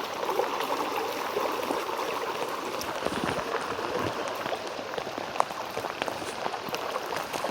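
Steady rush of fast-flowing floodwater with scattered small splashes and drips.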